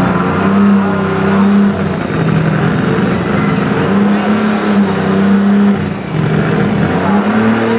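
Alcohol-burning Oliver 2150 super stock pulling tractor engine revving hard, its pitch rising, holding and falling back about three times.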